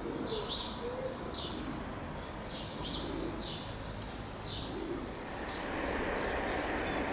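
A small bird chirps repeatedly in short high calls, with a few low coos from another bird in the first second. From about five and a half seconds in, the steady noise of an approaching train begins to rise: locomotives 47812 and 57304 drawing near.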